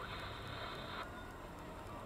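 Low, steady rumble of a car engine idling, heard from inside the stationary car's cabin, with a hiss that cuts off suddenly about a second in.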